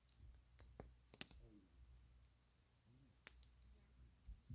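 Campfire crackling faintly, with a few sharp, scattered pops of burning wood, the clearest about a second in and again past three seconds.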